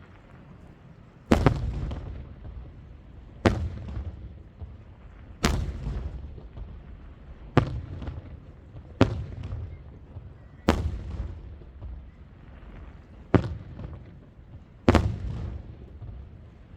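Fireworks aerial shells bursting: eight sharp bangs, one every one to three seconds, each followed by a low rumbling echo that dies away.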